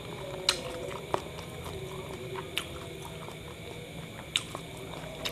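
Close-miked chewing of a mouthful of kebab wrap, with wet mouth clicks and smacks every second or so.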